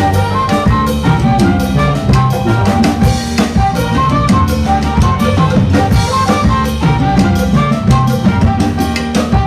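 A Latin big band playing live: a horn section over drum kit, timbales and congas keeping a steady salsa groove, with piano and bass.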